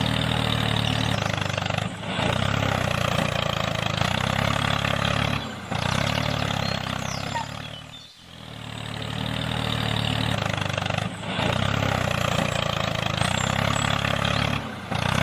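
An engine running steadily, with short drops in level every few seconds. It fades out and back in about eight seconds in.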